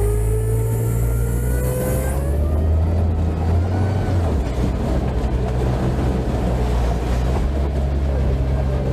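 All-terrain vehicle's engine pulling away, its pitch rising over the first two seconds or so, then running steadily under load with a loud drone and rattle as it drives off-road.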